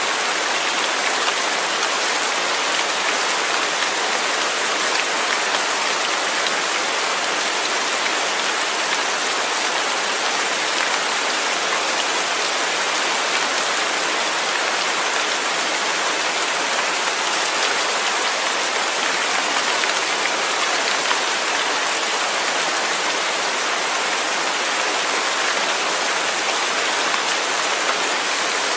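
Steady heavy rain falling, an even dense hiss of drops with no let-up.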